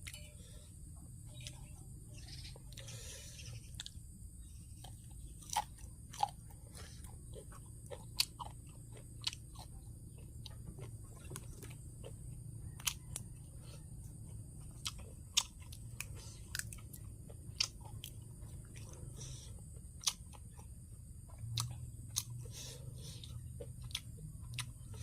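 Close-up eating sounds: a person chewing and crunching green papaya salad, with irregular sharp clicks and smacks. A low steady hum underneath.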